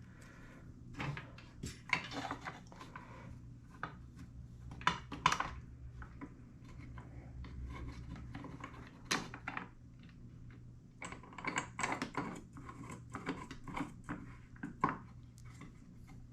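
Irregular clicks, knocks and brief rubbing of small hard objects being handled on a workbench, such as acrylic beads and drill bits, over a faint steady hum.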